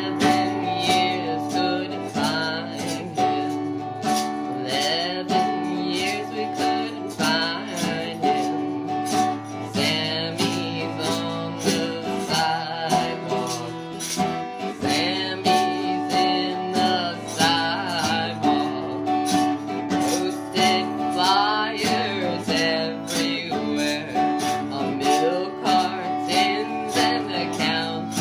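Acoustic guitar strummed in a steady rhythm, playing a song as a rough first run-through.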